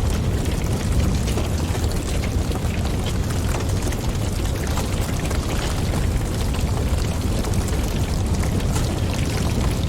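Wood fire crackling in a fireplace: scattered sharp pops and snaps over a steady low rumble of burning and wind.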